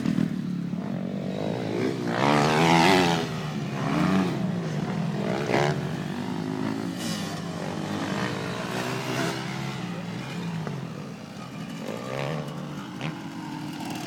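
Motocross bike engines revving up and down as they ride the track, loudest about two to three seconds in and fading toward the end.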